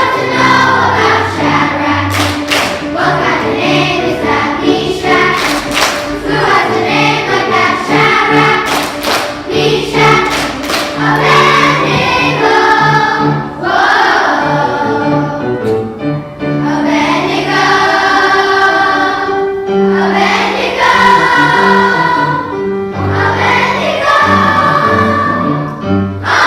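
A children's choir singing a song in unison with instrumental accompaniment that has a steady, stepping bass line.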